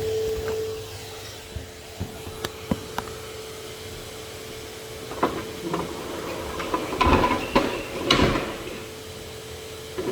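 Henry HVR200 vacuum cleaner running with a steady hum, overlaid by a scatter of sharp knocks and clatter of hard objects. The clatter thickens and is loudest in the second half.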